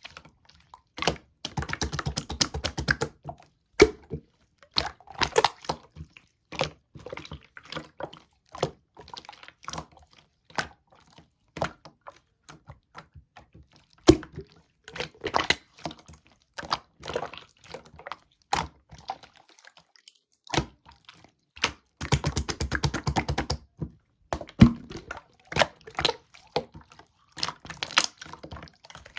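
Clear slime being squished and pressed by hand, giving rapid runs of small clicks and pops from trapped air bubbles, with single sharper snaps in between.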